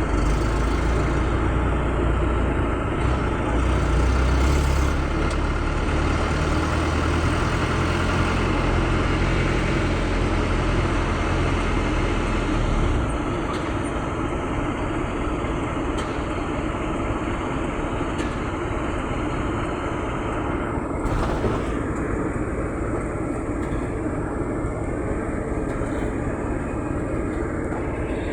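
Pickup truck on the move: steady engine and road noise with a heavy low rumble that drops away a little under halfway through, leaving a lighter steady noise.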